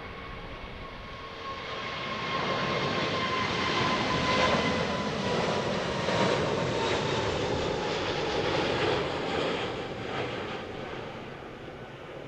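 Jet airliner passing by: the engine noise swells over a couple of seconds, holds, then fades, with a steady whine that slowly falls in pitch as it goes by.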